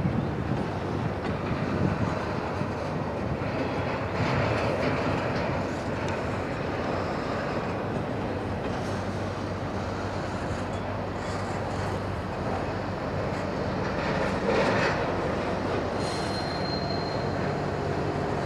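CSX freight train of single-stack container cars rolling past, its wheels rumbling and clattering steadily over the rails and crossover switches, with a brief high wheel squeal near the end.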